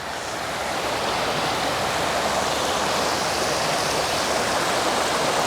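Rushing river water near a waterfall, a steady hiss that swells up over about the first second and then holds.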